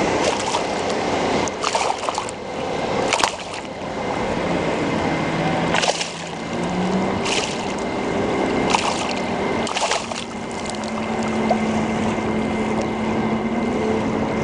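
Motorboat engine droning as the boat passes, with water splashing and slapping against the kayak at several moments.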